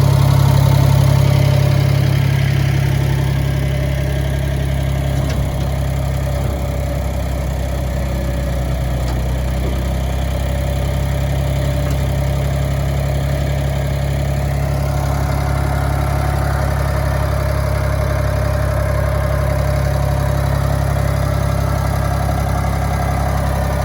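Ford 3000 tractor's three-cylinder gasoline engine idling steadily, a little louder in the first few seconds.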